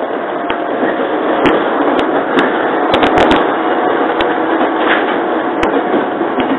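Running noise inside a JR 115-series electric train carriage: a steady rumble with scattered sharp clicks and knocks, bunched together about three seconds in.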